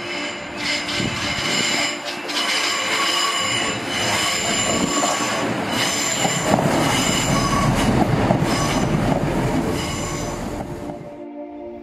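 Class 165 diesel multiple unit rounding a sharp curve close by, its wheels squealing in several high steady tones over the rumble and clatter of the passing train. The sound is loudest in the middle and cuts off suddenly near the end.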